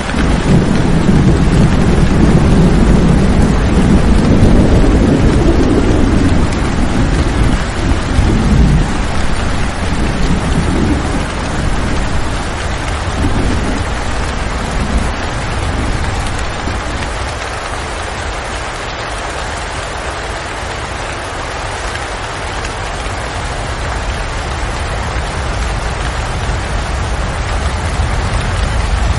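Steady heavy rain, with a long low rumble of thunder that is loudest in the first few seconds and dies away by about nine seconds in.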